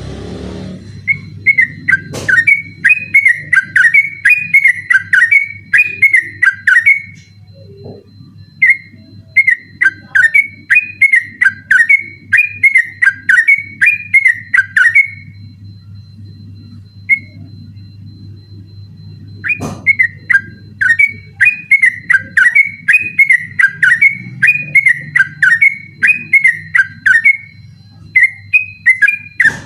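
Yellow-vented bulbul (trucukan) singing its 'ropel' song: long runs of quick, rapidly repeated whistled notes, in four spells broken by short pauses.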